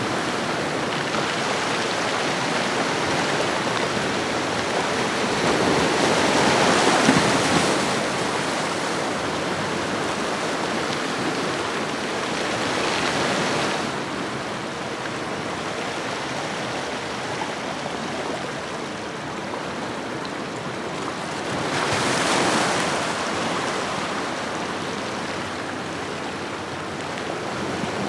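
Ocean waves washing on a shore: a continuous rush of surf that swells as waves break about 7 seconds in, again around 13 seconds and again around 22 seconds.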